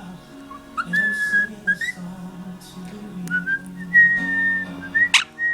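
Quaker parrot whistling: a series of held, high whistled notes at nearly the same pitch, each begun with a short upward slide, and a sharp sweeping chirp near the end. Music plays underneath.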